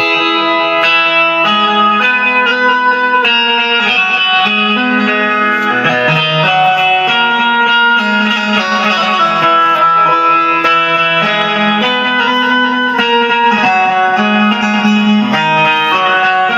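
Indian banjo (bulbul tarang, a keyed string instrument) playing a quick plucked melody, with low notes ringing steadily beneath it.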